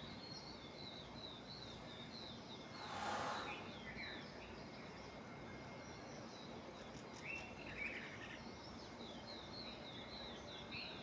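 Small birds chirping at dawn: a run of quick, high chirps repeating throughout, with a few lower calls about seven seconds in and again near the end. A brief rush of noise, like a gust of breeze, about three seconds in.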